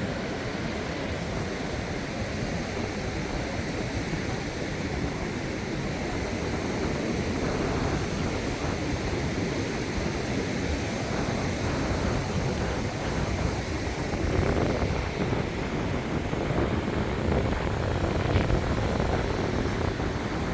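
Small surf washing onto a sandy beach: a steady rush of waves that swells a little now and then.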